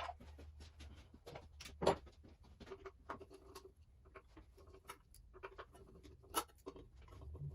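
Scattered light clicks and taps of small parts and hand tools being handled during outboard ignition work, with sharper knocks about two seconds in and again near the end.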